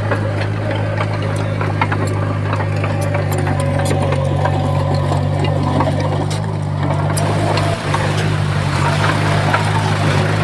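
Heavy diesel engine of earthmoving equipment running steadily under load in a low, even drone, with scattered light clicks and knocks over it.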